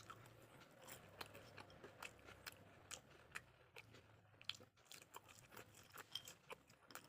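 Faint close-up chewing of fried snacks, fish rolls and French fries: soft crunches and wet mouth clicks, a few each second at an irregular pace.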